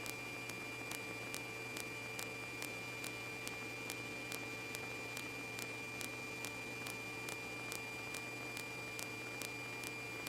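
Faint steady hiss and hum from a police radio channel between transmissions, with a faint tick repeating about twice a second.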